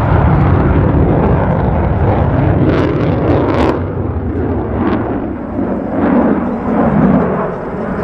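Loud, rumbling jet engine noise from an F-16 fighter flying an air show demonstration, with a few brief sharp crackles about three to four seconds in.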